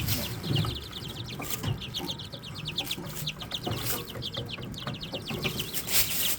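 Young chicks (Serama and pheasant-chicken chicks) peeping together: many short, high, downward-sliding cheeps, several a second, with a few soft knocks among them.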